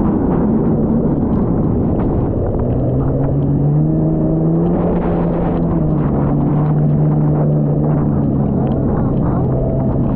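Jet ski engine running hard over a dense rumble of water and wind. Its pitch climbs a little a few seconds in, then eases and holds steady.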